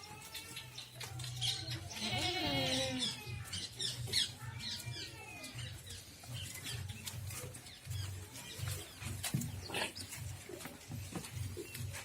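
Goats bleating: several drawn-out calls, the loudest a quavering bleat about two seconds in, followed by fainter ones.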